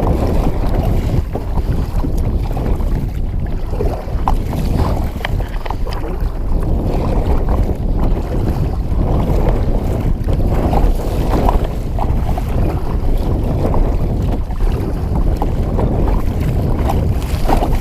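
Gusty wind blowing hard across the microphone, a loud steady rumble, with choppy water splashing around a small kayak.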